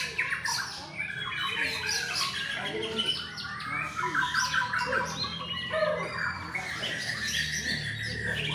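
Several white-rumped shamas singing at once, their songs overlapping: whistled phrases and rapid trills of quickly repeated notes, over a steady low hum.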